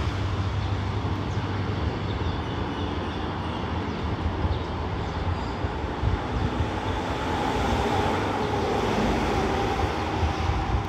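Steady low rumble of a diesel-electric locomotive hauling a passenger train as it runs away into the distance, mixed with wind-like noise. The sound swells a little about seven seconds in.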